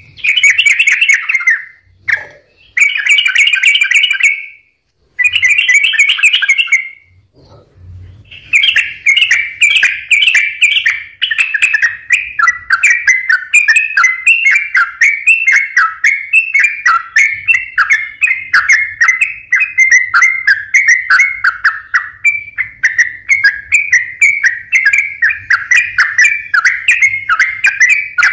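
Yellow-vented bulbul (trucukan) in full song: three short bursts of bubbly chattering notes in the first seven seconds, then, after a brief pause, a fast, unbroken run of repeated notes for the rest.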